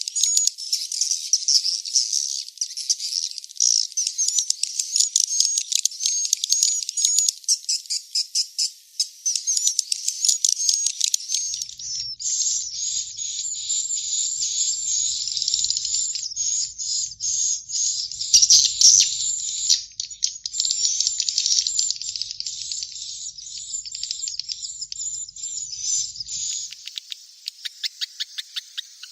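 Swiftlet chicks giving dense, rapid high-pitched chirps and twitters without pause. The texture changes about twelve seconds in, with a faint low hum underneath for a while. It is a swiftlet call recording of the kind played to draw swiftlets to roost in a nesting house.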